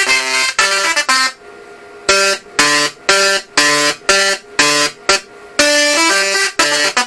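Solid-state Tesla coil (SSTC) in music mode, its spark discharge playing a melody as harsh, buzzy notes that change pitch in short rhythmic phrases, with a pause of about a second early on.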